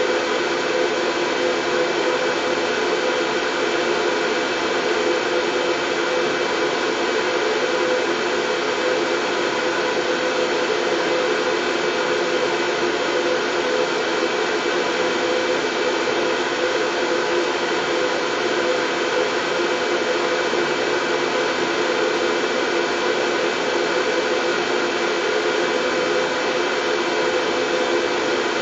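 Steady white noise for soothing a baby to sleep, running evenly with no breaks, with a faint steady hum of tones within the hiss.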